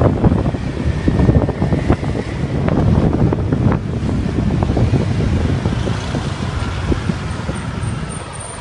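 Wind buffeting the microphone over the running engine and road noise of a motorbike taxi on the move. The gusts are heaviest in the first half and the noise eases off near the end.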